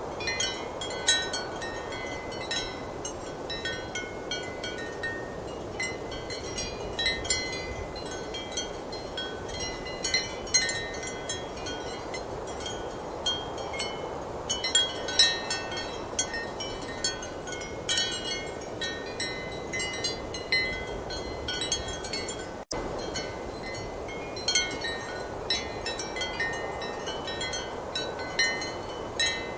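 Ceramic wind chimes clinking irregularly in clusters of short, high ringing notes over a steady rush of strong wind. A momentary dropout in the sound comes about two-thirds of the way through.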